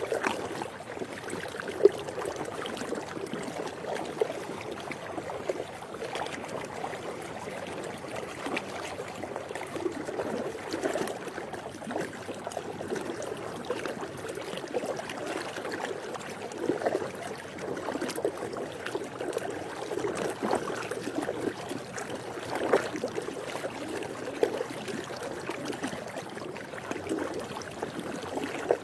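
Swimming pool water lapping and sloshing gently, with small irregular splashes and trickles. A single sharp click about two seconds in stands out above the water.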